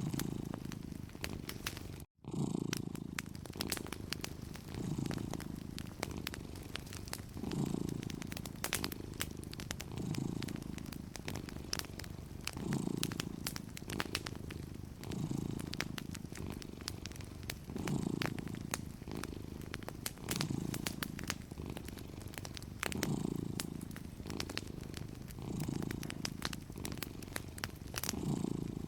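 Domestic cat purring, swelling and fading about every two and a half seconds with its breathing, over the small pops and crackle of a wood fire. The sound cuts out completely for an instant about two seconds in.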